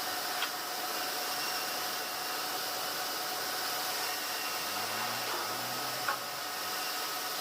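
Sawmill machinery running steadily, with a constant whine over the noise and a couple of sharp clicks, one about half a second in and one near the end.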